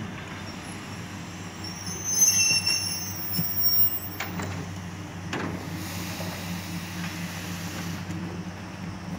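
Passenger train pulling in and stopping: high, thin brake squeal about two seconds in, then a couple of clunks and a hiss of air, over the train's steady low hum.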